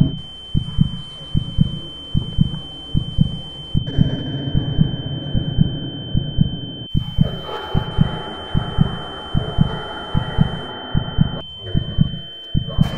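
Heartbeat sound effect: low, evenly paced double thumps repeating over a thin, steady high-pitched tone.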